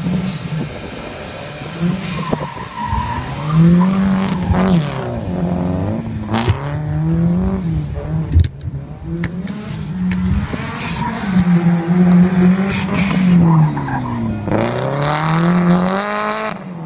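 Rally car engine revving hard and dropping back again and again as the car is thrown around a dirt course.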